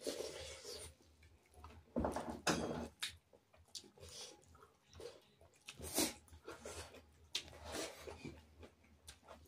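Mouth sounds of people eating by hand: irregular chewing and lip-smacking, with a few louder smacks about two, two and a half and six seconds in.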